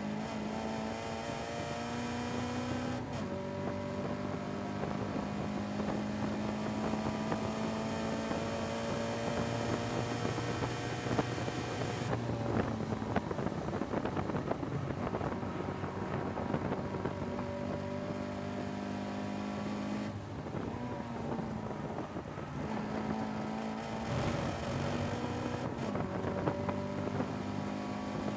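In-car sound of a Caterham 310R's 1.6-litre Ford Sigma four-cylinder engine under hard acceleration on a racing lap. The pitch climbs through each gear and is cut by upshifts several times. For several seconds near the middle the note turns rough and uneven.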